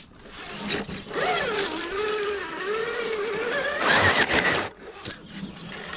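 Small electric RC crawler truck's motor whining, its pitch wavering up and down as the throttle changes, with a brief loud scraping burst about four seconds in. The driver takes the strained sound for a battery running low.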